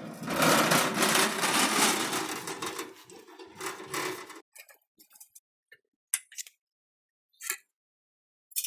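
A small electric power tool runs loudly for about four seconds and stops, followed by a few short, scattered clicks and knocks.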